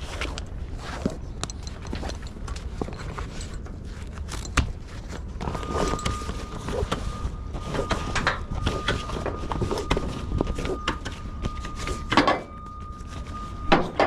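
Footsteps and knocks of someone moving about a flatbed trailer and handling tarps and tie-downs, with a few sharp bangs, over a steady low rumble. A thin steady tone comes in about halfway through.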